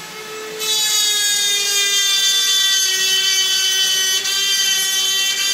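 Power tool motor running with a high whine that drifts slowly lower in pitch. It gets louder about a second in and cuts off abruptly near the end.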